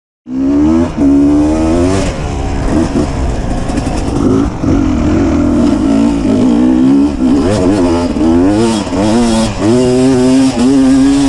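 Beta 250 RR two-stroke dirt bike engine being ridden, its pitch rising and falling again and again as the throttle is opened and eased off. It cuts in suddenly just after the start.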